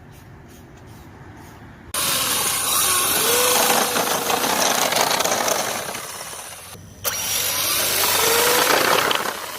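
Electric RC truck running: a wavering motor whine over loud hissing noise, starting suddenly about two seconds in, broken by a short drop about seven seconds in, then loud again.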